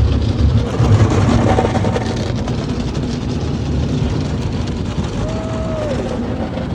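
Automatic car wash running around the car, heard from inside the cabin: a loud, steady rush of water spray and machinery.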